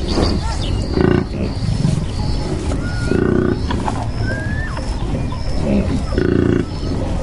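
Cattle lowing in three short, low calls a few seconds apart, with small birds chirping and whistling between them over steady background noise.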